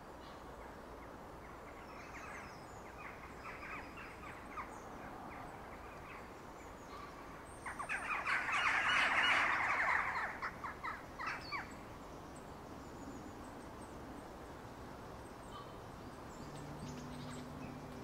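A woodland bird gives a harsh, rapid rattling chatter twice: a softer run about two seconds in, then a louder, longer one about eight seconds in. Under it runs a faint steady hiss of rain on the leaves.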